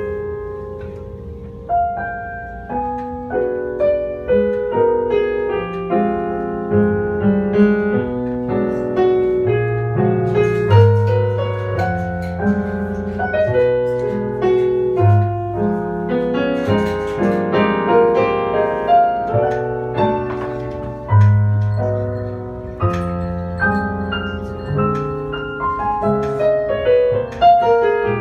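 Jazz piano playing live, a run of melody notes and chords over low bass notes.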